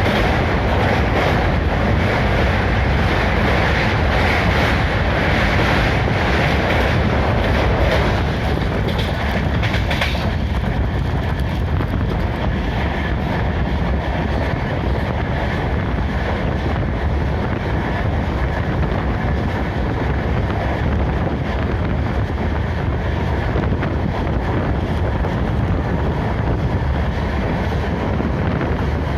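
A moving train running on the rails, a steady loud rumble with wheel clickety-clack. About eight seconds in the sound turns duller and a little quieter.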